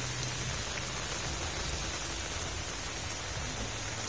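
Steady rain falling on a flooded street, an even hiss with scattered drop ticks.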